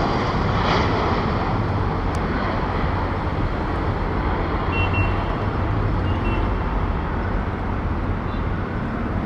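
Jet airliner engine noise: a steady rushing sound with a low hum that slowly fades as the aircraft moves away.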